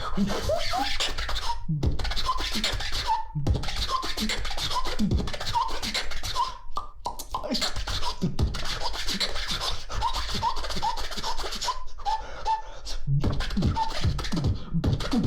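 Beatboxing by a special-sound beatboxer: fast vocal percussion of deep kicks and snares with a string of short whistle-like chirps over it, stopping briefly several times.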